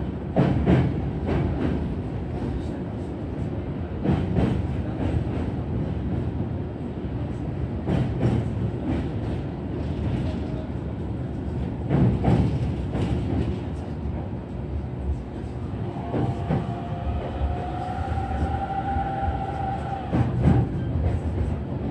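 Electric commuter train running slowly on the rail bridge under a strong-wind speed restriction, heard from inside the car. There is a steady low rumble with a heavy wheel knock over the rail joints about every four seconds, and a whine rises for a few seconds near the end.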